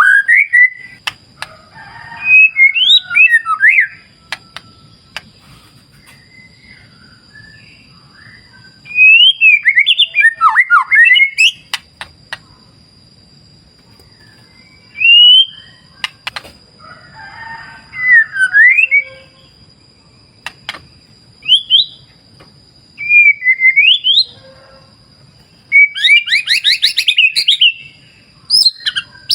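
White-rumped shama (murai batu) singing in loud bursts of rich, gliding whistled phrases with pauses between them. Beneath it runs a faint low rush of river water and a thin, steady high tone.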